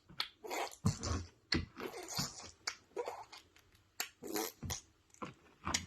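A baby making noises: a string of short, breathy vocal bursts and clicks, coming irregularly every half second or so.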